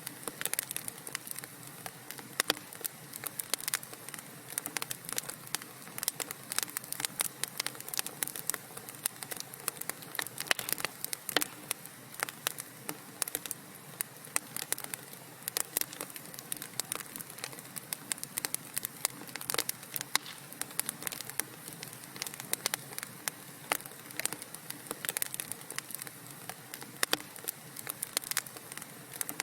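Wood fire crackling in a fireplace: many irregular small pops and snaps over a steady soft hiss.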